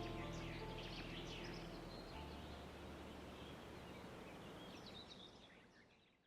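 Wild birds chirping, with the last notes of soft background music dying away in the first couple of seconds; everything fades out near the end.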